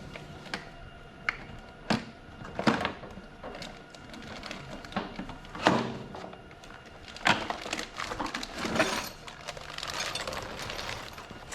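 Irregular knocks and clicks of parts and packaging being handled and taken out of a pressure washer's battery box, with a stretch of rustling near the end.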